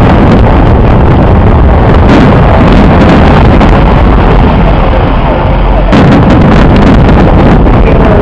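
Fireworks going off in a dense barrage, so loud that the recording is overloaded into a constant distorted noise. The sharp cracks thin out in the middle and pick up again about six seconds in.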